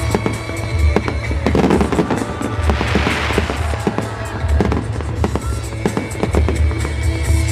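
Fireworks going off in a rapid string of sharp bangs and crackles, with music playing along.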